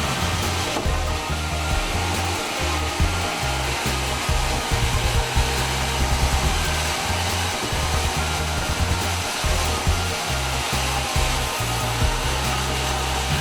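Sawmill saw running with a steady whir, over background music with a pulsing bass line.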